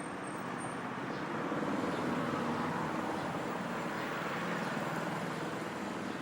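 Road traffic: a passing vehicle's noise swells about two seconds in and slowly eases off.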